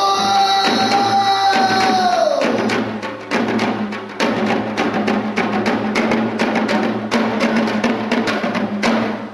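A pansori singer holds one long note that falls away about two and a half seconds in, over janggu (Korean hourglass drum) strokes. After that the janggu plays alone in fast, dense strokes.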